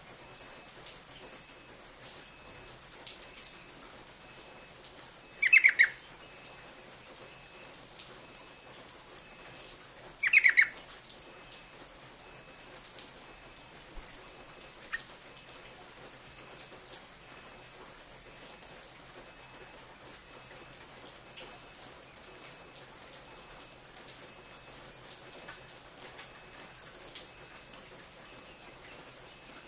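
Sooty-headed bulbul giving two short, loud calls about five seconds apart, with faint scattered ticks in between over a steady high hiss.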